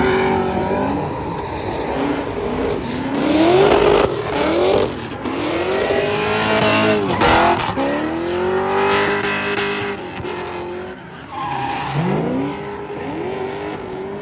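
Pickup truck doing a burnout: the engine revs up and falls back again and again over the squeal of spinning tires.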